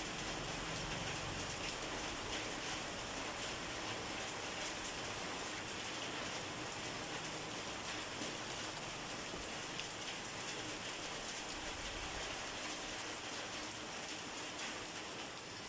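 Steady rain falling on a hard surface, a dense even patter of drops.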